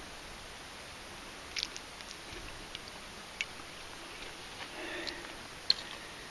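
Steady hiss of light rain, with a few scattered sharp ticks, the loudest near the end.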